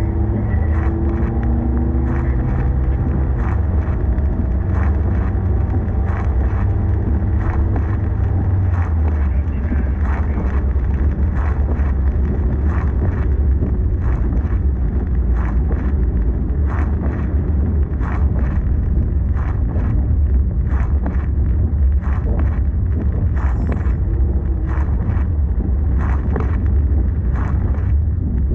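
A vehicle on the move: a steady low rumble of engine and road noise, with frequent short clicks and knocks throughout.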